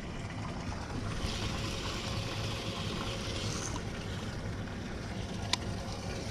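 Steady boat and river ambience: a low hum under wind and water noise, a soft hiss that swells for a couple of seconds, and a single sharp click near the end.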